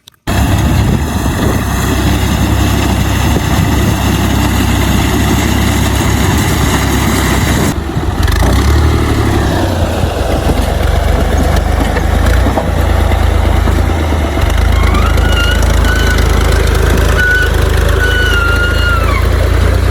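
Tractor engine running steadily under load while wheat is cut. A faint wavering, whistle-like tone comes in over the last few seconds.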